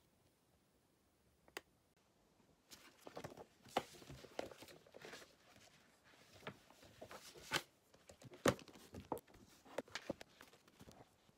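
Small objects being handled in a quiet small room: one sharp click, then from under 3 s on a run of uneven clicks, taps and rustling.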